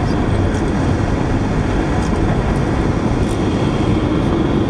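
Steady running noise of a moving passenger train, heard from inside the dome car of VIA Rail's Canadian, with a few faint clicks over it.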